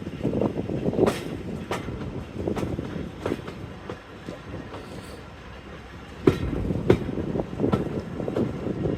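Railway carriage wheels clicking and knocking over rail joints as a train runs along the track, over a steady running rumble. Two sharp knocks come a little past the middle.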